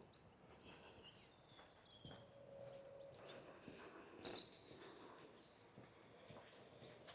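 Wild birds calling and singing faintly, with one louder, short falling chirp about four seconds in.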